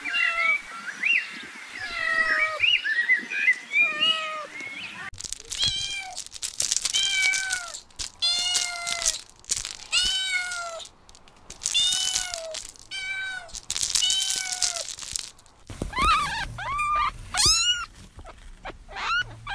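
Cats meowing. First comes a cluster of short, high, overlapping mews, then a run of separate meows about one a second, each rising and falling in pitch. Near the end, after an abrupt change, come more short, high mews.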